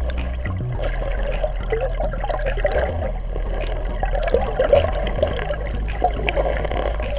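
Moving water splashing and trickling around a kayak, irregular and continuous, with a low steady hum underneath.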